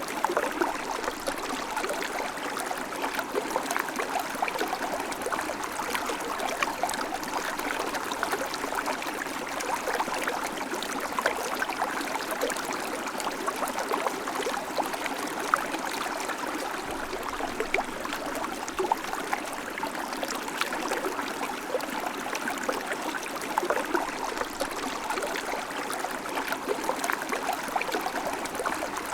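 River water flowing steadily, a constant rush with small splashes and trickles.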